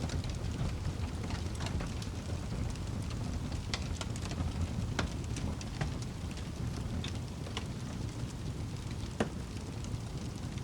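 Wood fire crackling: a steady low rumble of flames with scattered sharp pops, the loudest about nine seconds in.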